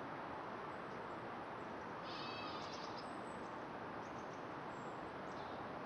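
Quiet rural outdoor ambience, a steady soft hiss, with a short high chirping trill about two seconds in.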